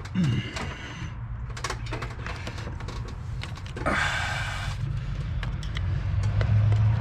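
Hand tools and plastic connector clips being handled: scattered light clicks and knocks, with a brief scrape about four seconds in, over a steady low hum.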